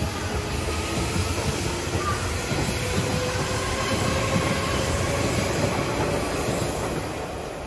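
Hanshin Railway electric train passing close by, its wheels rumbling on the track with a faint whine over the noise. The sound fades near the end as the last car goes by.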